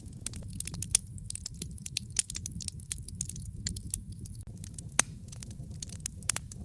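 Wood fire crackling in a fireplace: irregular sharp pops and snaps over a steady low rumble, with a louder pop about a second in and another near the end.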